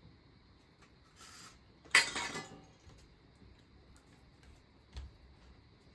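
Tableware being handled at a meal. One sharp clink about two seconds in rings briefly, after a short scrape, and a soft thump follows near the end.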